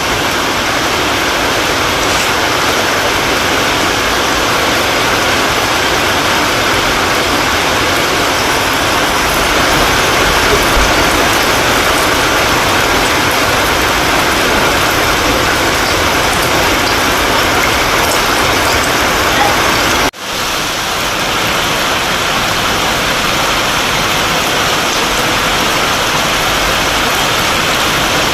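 Heavy rain falling, a loud steady hiss that breaks off for an instant about twenty seconds in and then resumes.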